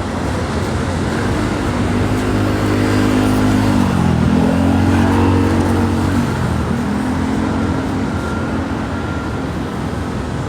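A motor vehicle's engine going past close by, loudest about five seconds in. Its engine note dips sharply twice, about four and six and a half seconds in, over a steady low traffic rumble.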